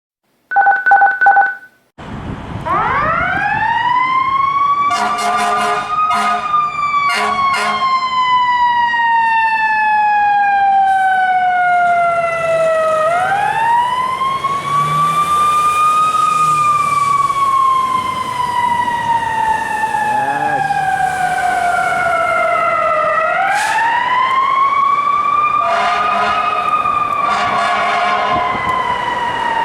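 A short pulsed beeping of a fire station alarm-terminal tone, then a fire engine's siren. The siren winds up and falls slowly over several seconds, and winds up again twice. Bursts of air horn blasts come a few seconds in and again near the end.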